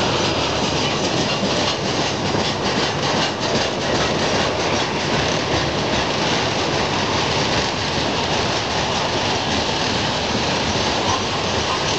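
Loaded coal hopper cars of a CSX freight train rolling past, steel wheels rumbling steadily on the rails with a stream of rapid clacks.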